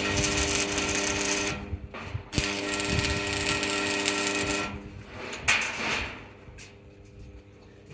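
An electric power tool running in two bursts, the second a little longer, with a steady hum under a harsh hiss, followed by a few short knocks.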